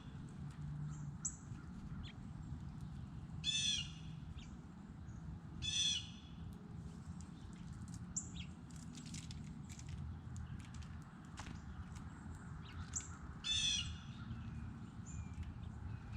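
A corvid giving three loud, harsh calls: two about two seconds apart, then one more after a long gap. Short, high chirps from small birds come in between.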